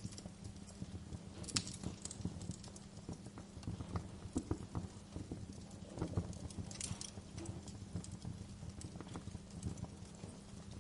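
Fire in a fireplace crackling: irregular small pops and snaps over a low steady rumble, with a louder pop about a second and a half in and another about seven seconds in.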